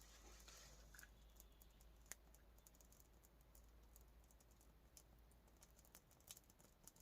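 Near silence with faint, scattered sharp clicks and ticks at irregular intervals.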